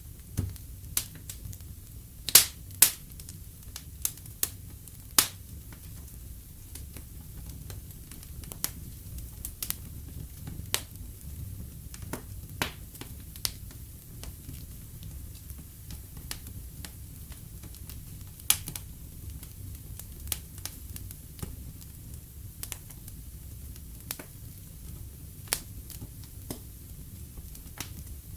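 Wood fire in a fireplace crackling, with sharp irregular pops over a low steady rumble; the loudest pair of pops comes about two and a half seconds in.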